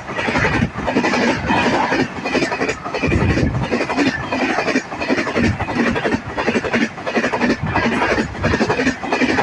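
Express passenger train passing close at speed, its coaches' wheels clacking over the rail joints in a fast, steady rhythm.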